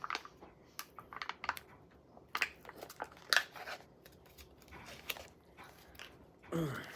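Fried chicken tenders and their paper packaging being handled: scattered short crinkles, clicks and crunches.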